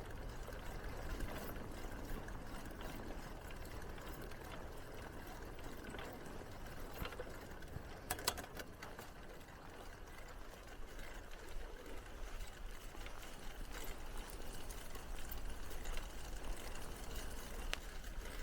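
Bicycle rolling along a path: a steady rushing noise with a low rumble, and a short clatter of clicks about eight seconds in.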